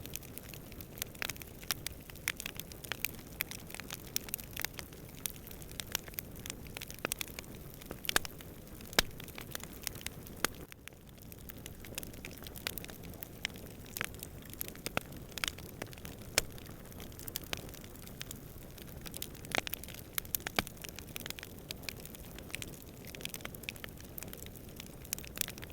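Wood campfire crackling, with frequent sharp pops of varying loudness over a low steady rush.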